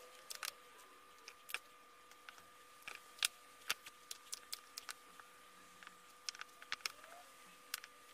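Irregular sharp clicks and taps of nickel strips and battery cells being handled and fitted, over a faint steady electronic whine.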